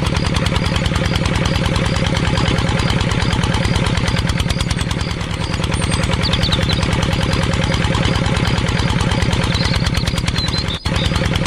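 Engine running steadily at idle with a rapid, even chugging beat, briefly cutting out for an instant near the end.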